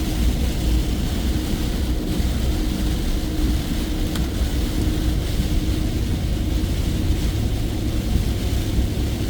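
Heavy rain pouring on a moving vehicle, heard from inside the cabin as a steady hiss over the low rumble of the engine and tyres on the road.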